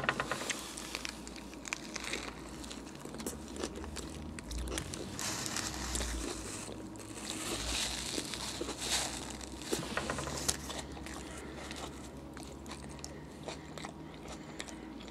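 A person biting and chewing a Subway roast beef sandwich on soft, untoasted bread, with many small wet mouth clicks.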